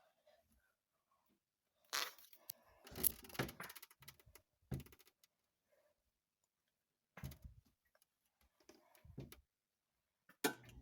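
Faint handling noises: a cluster of clicks, knocks and rustling about two seconds in, then a few single knocks spaced a couple of seconds apart.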